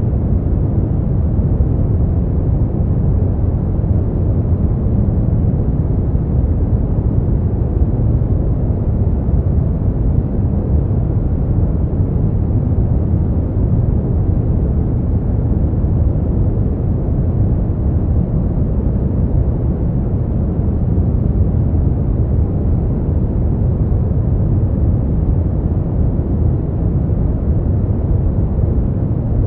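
Steady, unchanging noise for sleep, sold as white noise but heavy in the low end and dull on top, closer to a deep brown-noise rumble than a bright hiss.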